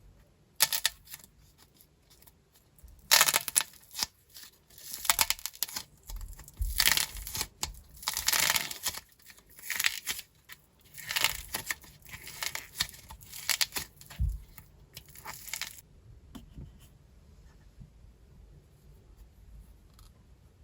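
Dried plaster clay crust being cracked and crumbled by hand, a run of crackling, crunching bursts that stops about three-quarters of the way through, leaving only a few faint clicks.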